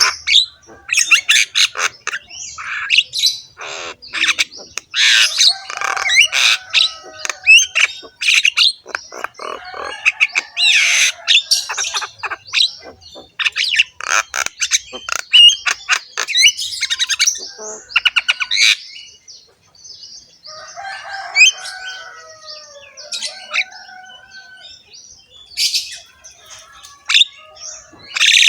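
A Javan myna (jalak kebo) sings a long, varied chattering song of harsh, rough notes, rapid clicks and short whistles, with a quieter stretch in the second half.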